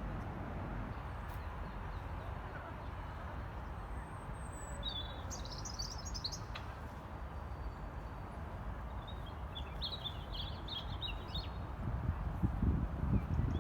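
Birds chirping in two short bouts of quick high notes over a steady low outdoor rumble, which grows louder near the end.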